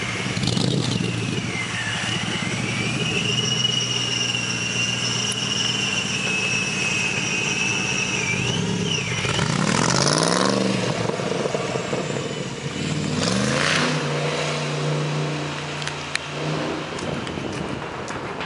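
V8 engine of a Factory Five Shelby Cobra replica with side-exit exhausts pulling away from rest. It revs up twice in rising sweeps through the gears, then settles into a steady drone that fades as the car moves off.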